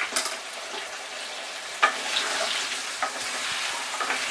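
Cubed potatoes deep-frying in hot oil in a kadai: a steady sizzle, with a few sharp clicks along the way.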